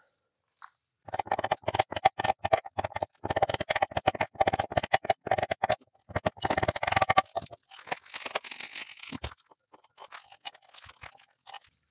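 Sticks and kindling being snapped and handled to build a campfire: a quick, irregular run of cracks and crunches, with a rustle near the end. Crickets chirp steadily in the background.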